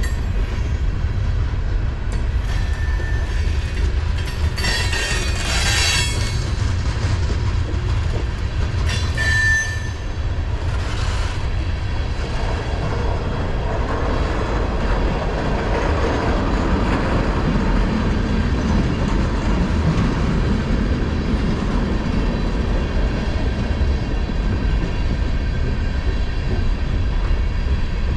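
Mixed freight train cars rolling past at track side, a steady low rumble with the clatter of wheels on rail. Brief high-pitched wheel squeals cut through twice, about five and nine seconds in.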